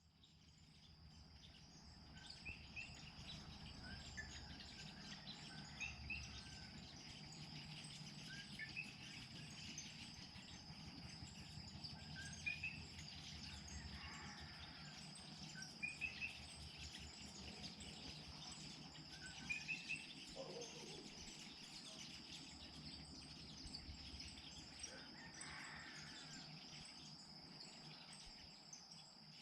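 Faint evening outdoor ambience: a steady high insect drone, with birds chirping every couple of seconds over a low rumble.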